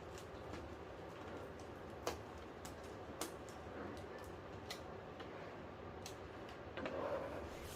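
Scattered light clicks and taps at an uneven pace from small parts being handled while a flat-screen TV is taken apart, with a short rustle near the end.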